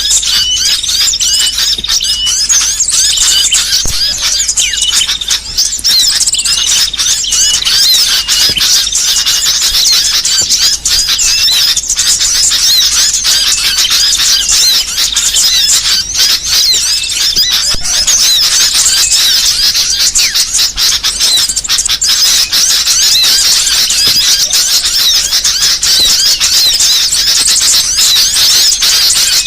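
A dense, unbroken chorus of many small songbirds chirping and twittering at high pitch, with a short note repeated over and over in the first few seconds. It is a 'burcil' (small-bird) mixed-call recording of the kind used to lure birds and to tutor caged songbirds.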